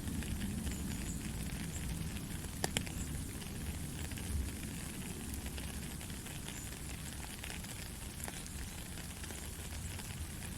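Steady rain falling, a dense patter of drops over a low rumble, with one sharper click a little under three seconds in.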